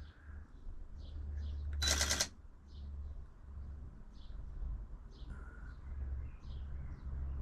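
Small garden birds chirping faintly, in short scattered calls, with one loud, short, harsh sound about two seconds in.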